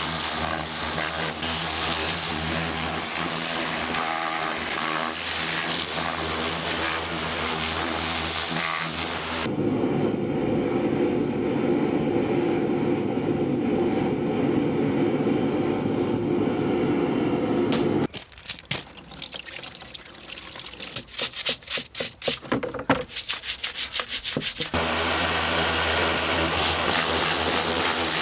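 Pressure washer (jet wash) running and spraying down a greasy steering box: a steady motor hum under a hiss of water spray. About a third of the way in the sound changes to a steadier rush of spray. Past the middle it breaks into rapid on-off pulses for several seconds before the steady hum returns near the end.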